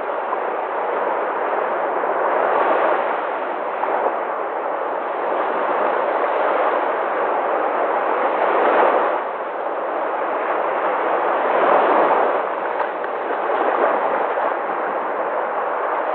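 Sea waves: a continuous wash of surf that swells and eases as waves break, loudest about nine and twelve seconds in.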